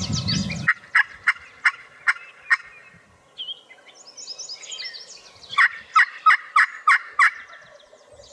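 Turkey calls: two runs of six or seven sharp, evenly spaced notes, with small songbirds chirping between them.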